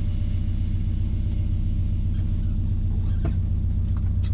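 Mazda B-series pickup driving along: a steady low engine drone with a hiss of road and wind noise.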